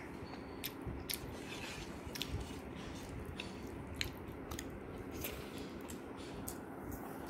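Eating sounds: chewing and biting, with scattered small clicks and smacks, over a steady low hum.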